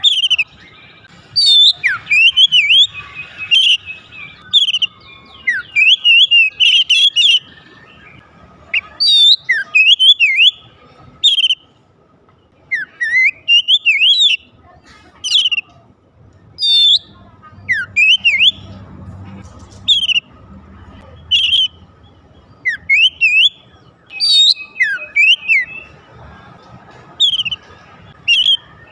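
Oriental magpie-robin (kacer) singing loudly: short phrases of sweeping whistles and chirps repeated every second or two, with brief pauses between them.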